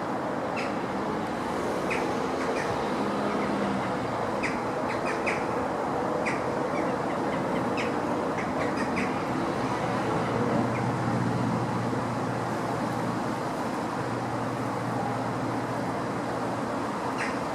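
A diesel train running past with a steady rumble, its low engine drone growing stronger about halfway through. Birds chirp now and then over it.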